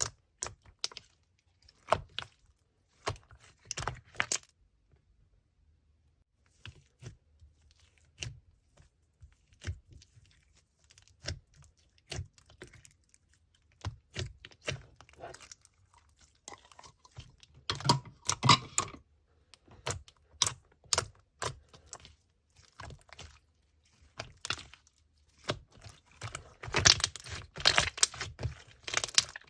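Hands pressing and squishing slime, giving irregular sharp clicks and pops. Denser crackly stretches come about two-thirds through and again near the end.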